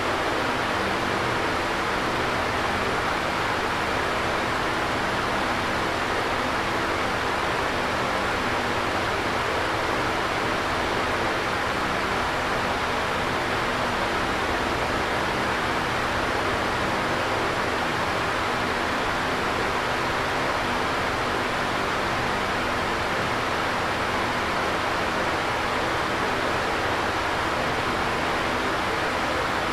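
Electric fan running steadily: an even whooshing hiss of moving air over a faint low motor hum.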